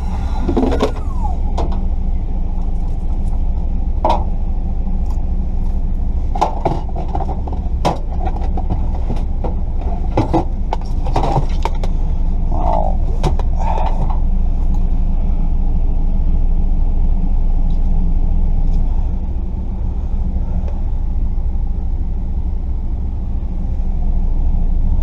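A vehicle running, a steady low rumble, with scattered clicks and knocks through the first half.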